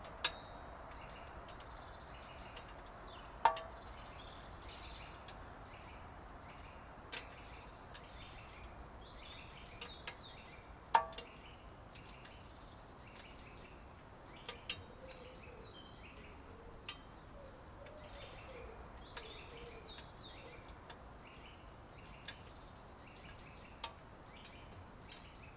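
Birds chirping faintly over a quiet outdoor background, with sharp single clicks every few seconds at irregular intervals.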